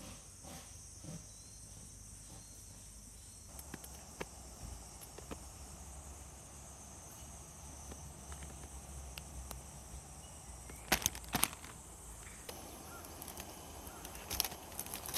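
Insects chirping steadily in a high, even drone, with scattered light clicks and a short cluster of sharper crackles about two-thirds of the way through.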